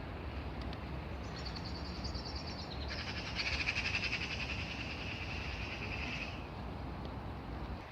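Night-calling animal giving rapid, high-pitched pulsed trills: a short, higher one, then a longer, louder and somewhat lower one lasting about three seconds.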